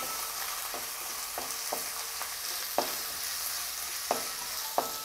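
Sliced garlic, chopped ginger and curry leaves sizzling in hot sesame oil in a heavy metal pan while they are sautéed, stirred with a wooden spatula. Now and then the spatula knocks against the pan, about six times in all, and some of the knocks ring briefly.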